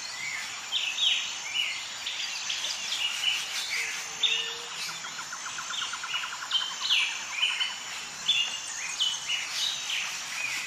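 Several songbirds singing at once: overlapping short whistled phrases and chirps, with a fast trill in the middle.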